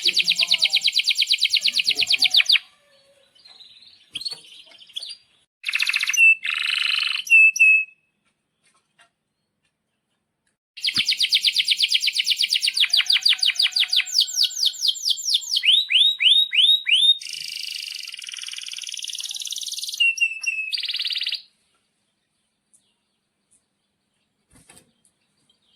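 Domestic canary singing: fast rolling trills and sharp chirps, in a short burst of phrases, then after a pause of a few seconds a long song of about ten seconds with rapid trills and quick falling sweeps. It falls silent for the last few seconds.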